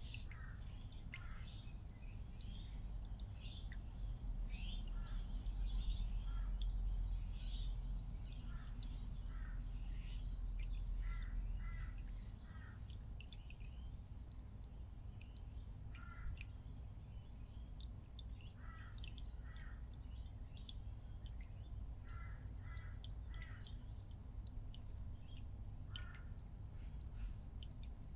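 Birds chirping and calling in the background, short high notes often in groups of two or three, over a steady low rumble that is louder through the first half.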